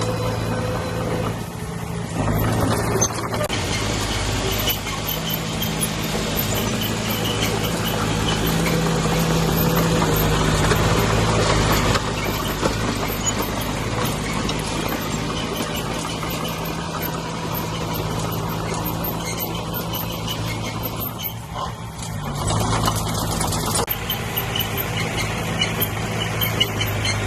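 Heavy construction machine's diesel engine running steadily under work, with brief dips in loudness about two seconds in and again near the end.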